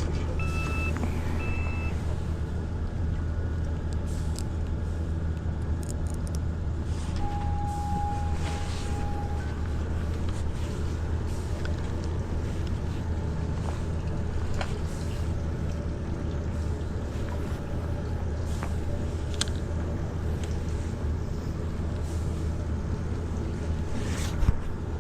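Steady low mechanical drone, with a few short beeps in the first two seconds and a brief tone about eight seconds in.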